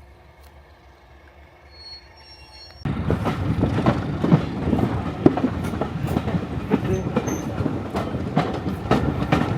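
A train running on the rails, with irregular wheel clicks and rattling. It starts abruptly about three seconds in, after a quieter stretch with a low hum.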